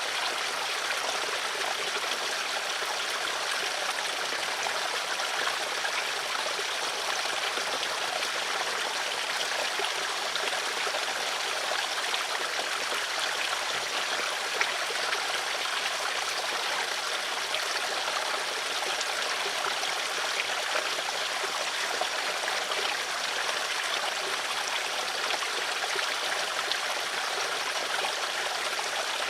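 Stream of flowing water running steadily, a continuous trickling and splashing rush.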